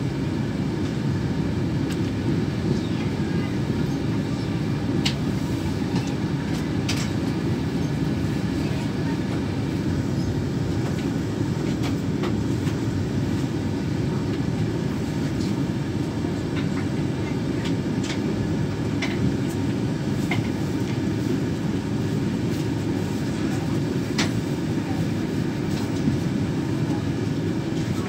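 Inside a moving Mark 4 intercity passenger carriage: a steady low rumble of wheels on the track, with a few sharp clicks now and then.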